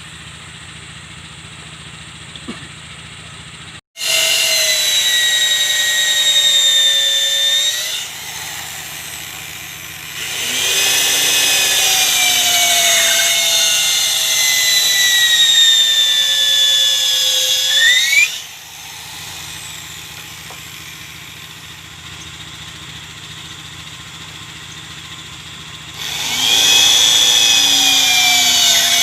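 Handheld electric power tool working wood: three long runs of a high motor whine whose pitch sags steadily under the cut and springs back up as the load comes off, with a quieter steady hum between runs.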